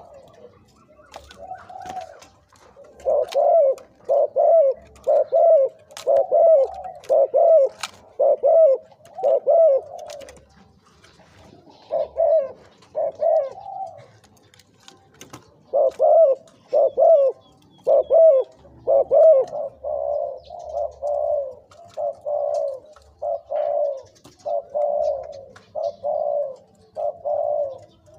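Spotted dove cooing: short, low coos repeated in quick runs of several notes, with brief pauses between the runs.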